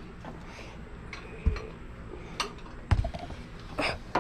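A few scattered clicks and knocks of a wrench against metal as it is worked onto a bracket bolt in a truck's engine bay, the socket not seating.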